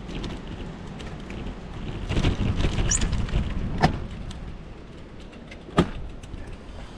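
Wind buffeting the microphone of a camera on a moving bicycle: a rough low rumble that swells about two seconds in and eases toward the end, broken by two sharp knocks, one a little before four seconds and one near six.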